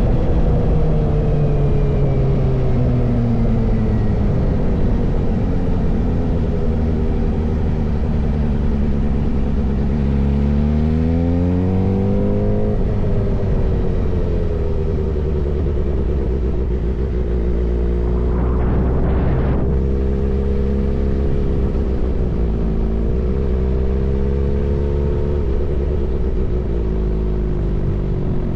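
Suzuki GSX-R inline-four motorcycle engine running through an M4 full-system exhaust, its pitch sinking and rising with the throttle and climbing steeply about a third of the way in. A brief rushing noise passes about two-thirds of the way through.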